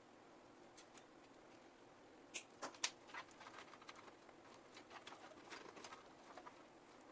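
Quiet handling noise: a quick cluster of sharp plastic-like clicks about two and a half seconds in, followed by scattered light ticks and taps, as parts and cables are handled during a PC build.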